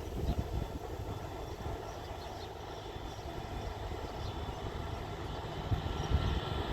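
WDP4D diesel locomotive and its train running: a steady low rumble with faint thin tones above it.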